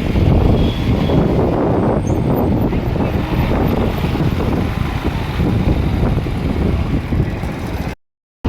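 Steady wind and road rumble on a phone microphone during a motorbike ride, heaviest in the low end. The sound cuts out to silence for about half a second near the end.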